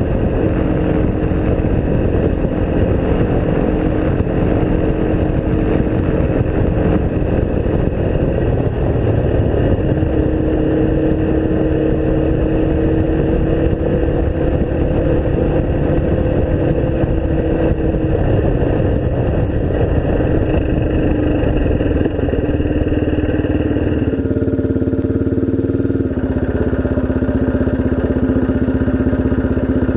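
Single-cylinder off-road engine running steadily while riding, its note wandering slightly with the throttle. About 24 seconds in it drops to a lower, steadier note as the throttle eases off.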